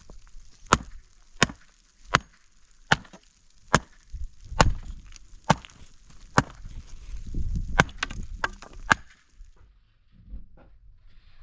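Wood being chopped: about a dozen sharp, evenly paced blows, a little under one a second, that stop near the end.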